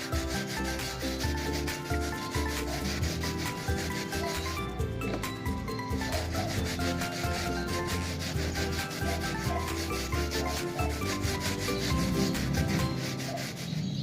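A brush scrubbing a mountain bike tyre in rapid back-and-forth strokes.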